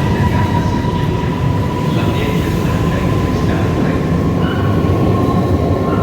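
High-speed train moving along the platform, a loud, steady rumble of wheels on rail with a thin, steady high whine running through it.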